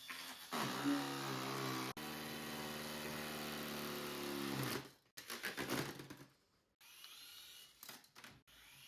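A small electric motor in a toy, likely overvolted, running with a steady buzzing whine. It cuts out about five seconds in, then sputters in short choppy spurts.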